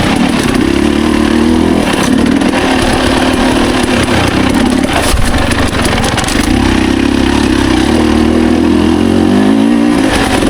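Dirt bike engine running at low, fairly steady revs in second gear on a trail ride. The revs dip and pick back up a few times and climb near the end.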